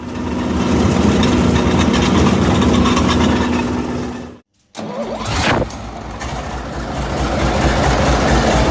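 YaMZ-240 V12 diesel engine of a T-500 bulldozer running. The sound cuts out briefly a little past halfway, then the engine comes back and builds steadily louder.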